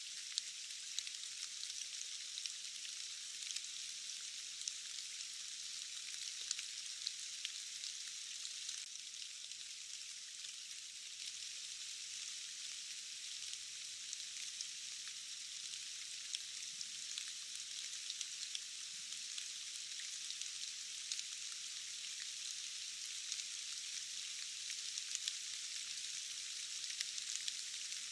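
Steady rain hiss with scattered sharp ticks of single drops; the sound is thin and bright, with no low rumble.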